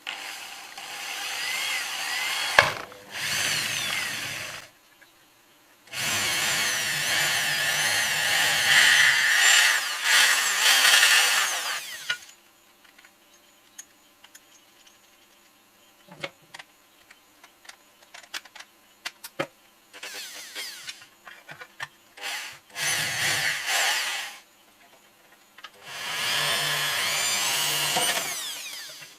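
A hand-held electric power tool, drill-like, running in bursts of a few seconds, about six times, its pitch wavering as it is pressed into the work. Small clicks and taps come between the bursts.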